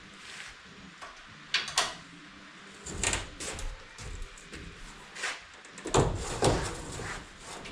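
Scattered knocks and clunks, like parts or tools being handled: a quick pair about one and a half seconds in, more around three seconds, and the loudest pair about six seconds in.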